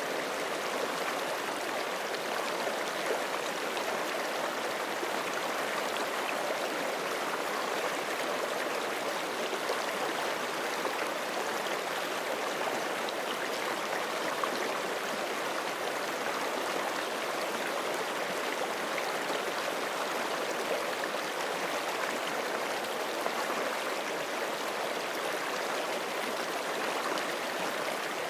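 Forest stream rushing steadily over rocks: a continuous, even water sound with small splashes and gurgles, no breaks.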